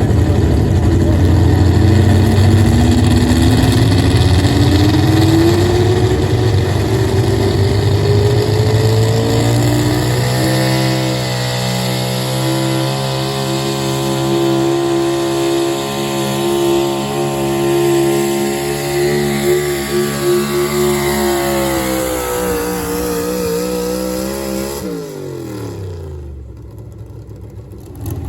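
Four-wheel-drive pulling truck's engine at full throttle under load on a pull. The revs climb steadily for about ten seconds, hold high and steady, then fall away a few seconds before the end as it comes off the throttle, leaving it much quieter.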